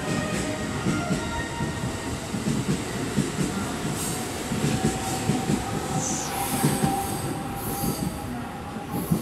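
JR West 681 series electric train pulling out at low speed, its cars rolling past close by with a steady rumble and clunks of wheels over the rails, and a steady tone underneath. Short high-pitched wheel squeals come in about six seconds in.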